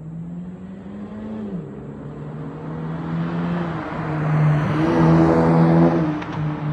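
A 2012 Honda Civic's 1.8-litre four-cylinder engine running through an aftermarket muffler exhaust. Its note drops in pitch about one and a half seconds in, then grows louder with a rush of exhaust noise that peaks around five seconds in before easing.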